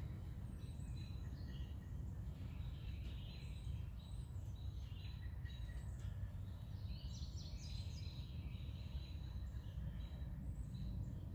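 Birds chirping and singing, many short high notes scattered throughout with a quick run of stepped notes midway, over a steady low rumble.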